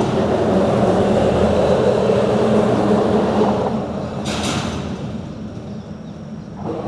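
A vehicle crossing a bridge: a loud rumble with a steady low hum that builds in the first three seconds and then fades, with a short hiss about four seconds in.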